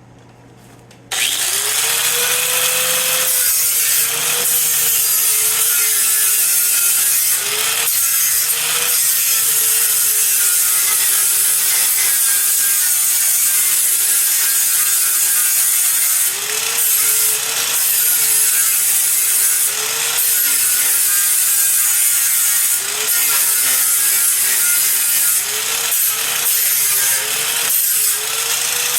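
A power grinder starts about a second in and runs on, cleaning up welded sheet metal. Its whine drops in pitch each time it is pressed into the work and rises again when eased off.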